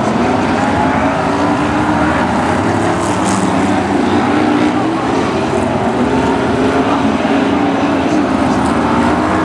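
BriSCA F1 stock cars' V8 engines running on the track, several cars at once, their pitch wandering up and down as they lap.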